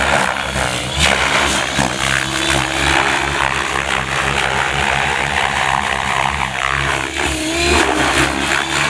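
Gaui X7 radio-controlled helicopter flying 3D aerobatics at high head speed: the main rotor whirring and the drive whining continuously, with pitch sliding up and down near the end as the blades load and unload.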